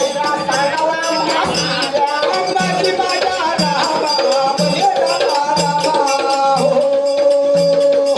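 Marathi folk devotional music in the kalgi shahiri style: regular low drum beats, jingling percussion and a wavering melody line that settles into a long held note near the end.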